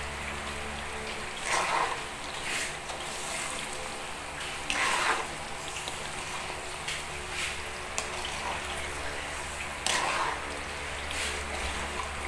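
Bananas and brown sugar frying in hot oil in an aluminium wok: a steady sizzle. A metal spatula scrapes and knocks against the wok several times as the bananas are stirred, loudest about 5 and 10 seconds in.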